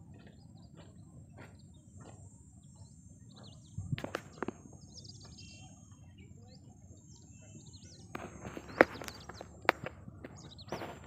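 Outdoor ambience with small birds chirping now and then over a low, steady background noise. A few sharp knocks stand out, one about four seconds in and two more near the end.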